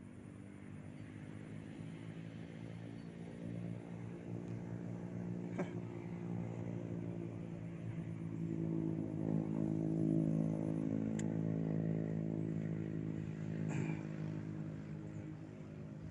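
An engine running at a steady pitch, growing louder to about ten seconds in and then fading away, with a couple of faint clicks.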